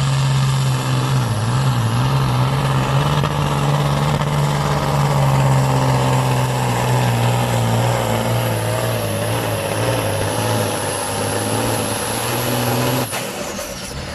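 Supersport pulling truck's diesel engine running hard at high, nearly steady revs under the load of the sled. It cuts off suddenly near the end, followed by a faint falling whine.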